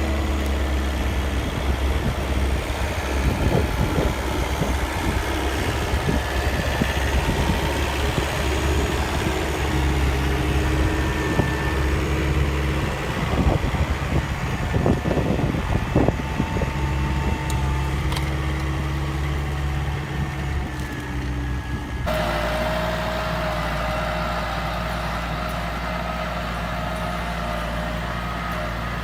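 Small tractor engine running steadily, with irregular knocks over it for much of the first half. About 22 seconds in the sound cuts abruptly to a different engine running evenly at a steady pitch.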